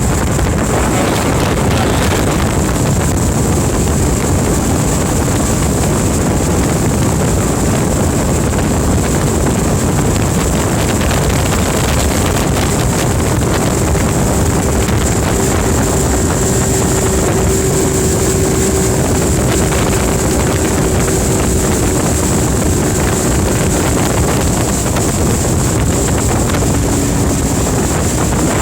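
Motorboat engine running steadily while under way, with wind buffeting the microphone. The noise is loud and even throughout, with a faint steady engine note in the middle.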